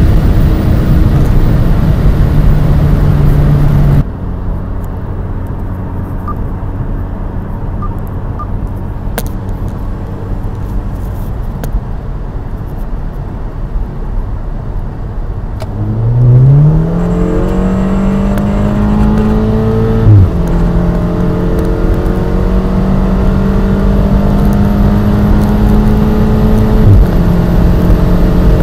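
Modified Audi TT 2.0 TFSI turbocharged four-cylinder with a Billy Boat downpipe and Bastuck quad exhaust. It is loud at speed at first, then cuts to a quieter steady hum. About two-thirds of the way through it accelerates hard, its pitch climbing fast, with a sharp crack at each dual-clutch upshift, the first one-third from the end and the second just before the end.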